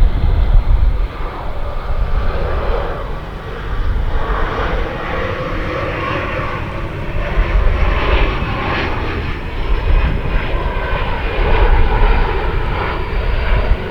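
Jet airliner's engines at takeoff thrust: a loud, rough, steady rumble as a heavy jet rolls for takeoff.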